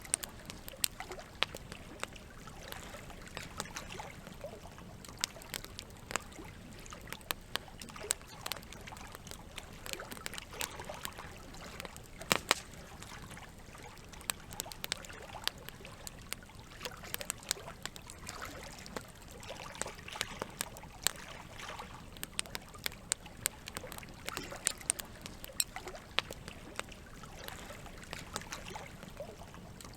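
Campfire crackling with frequent irregular sharp pops, a few louder than the rest, over a steady trickle of running water.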